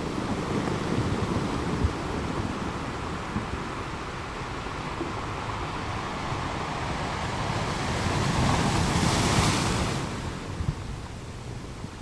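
Ocean waves washing in a steady hiss, with one wave building and breaking louder past the middle, then falling away.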